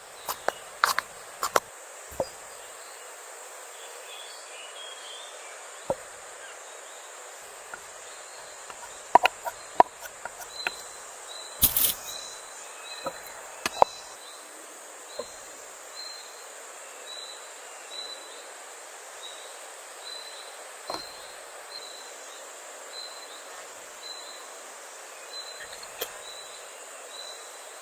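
Outdoor ambience: a steady high hiss with scattered sharp clicks and knocks, the loudest about twelve seconds in. From about ten seconds in, a short high chirp repeats at an even pace, about one and a half a second.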